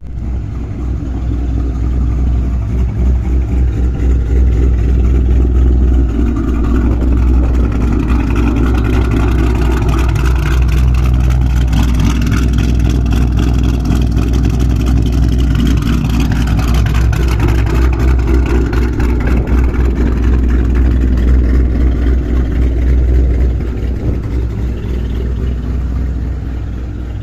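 Ford Mustang S197 with an aftermarket camshaft idling loudly through a straight-piped exhaust, with a choppy, uneven pulse. It is a little quieter near the end.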